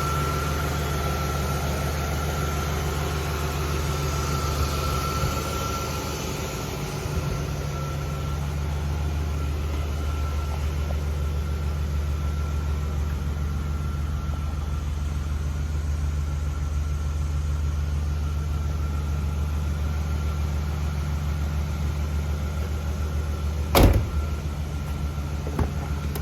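A car engine running at a steady idle, a continuous low hum. A single loud knock comes about 24 seconds in and a lighter one shortly after.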